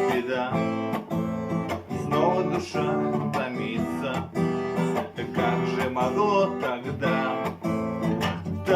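Acoustic guitar strummed in a steady rhythm: the instrumental intro of a song, before the singing begins.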